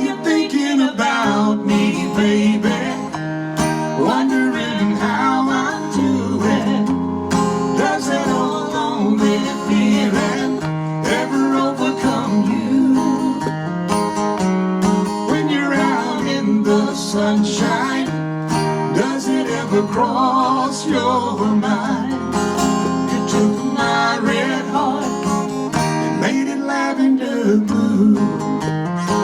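Live country-style song played on strummed acoustic guitar, with a wavering lead melody running over it in an instrumental break.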